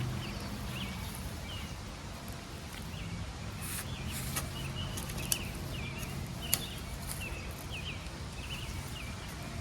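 Digging in garden soil with a hand tool, with a few sharp clicks of the tool near the middle, while a small bird chirps short repeated notes throughout.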